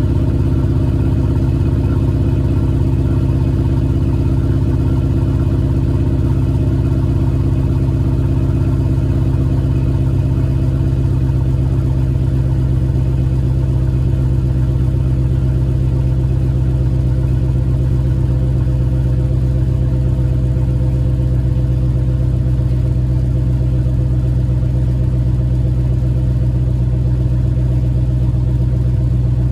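2004 Pontiac GTO's 5.7-litre LS1 V8 idling steadily on a cold start, breathing through JBA shorty headers into the stock exhaust, with the exhaust leak fixed.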